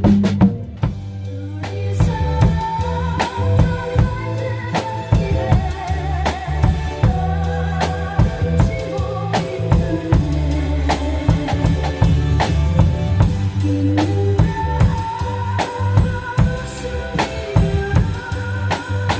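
Drum kit played along with a recorded ballad accompaniment: steady bass drum and snare hits over a bass line and a sustained melody.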